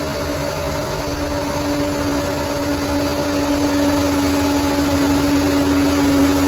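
Bulldozer's diesel engine running steadily with a steady whine over a low rumble, growing gradually louder.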